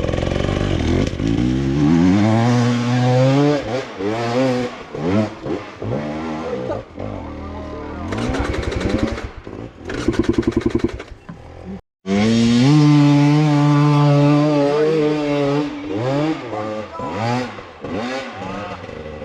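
Enduro dirt bike engine revving hard and repeatedly, its pitch climbing and dropping with the throttle. There is a chugging, pulsing stretch at low revs partway through and a brief break before the revving resumes.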